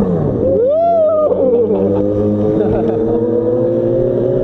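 Yamaha FZ6 motorcycle's 600 cc inline-four engine under way. Its pitch drops as it slows, it revs up and back down quickly about a second in, then it pulls steadily with the pitch slowly rising.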